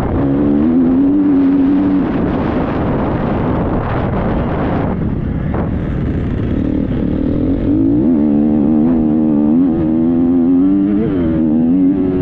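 Triumph 250 motocross bike's engine running under the rider, its pitch rising and falling as the throttle opens and closes, with a rush of wind and ground noise over it in the first few seconds.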